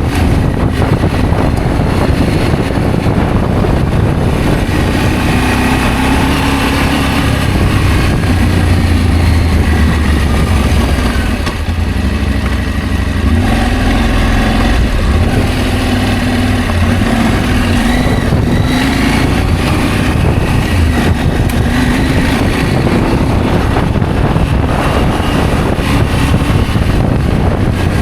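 Adventure motorcycle engine running under way, its pitch rising and falling with the throttle, over a heavy low rumble.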